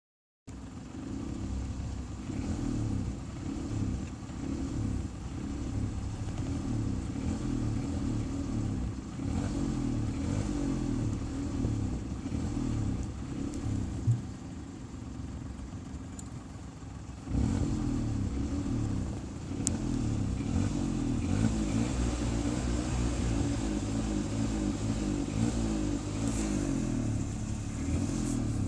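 Car engine being revved over and over, its pitch climbing and falling with each blip of the throttle. About halfway through it drops back to a quieter idle for a few seconds, then the revving resumes.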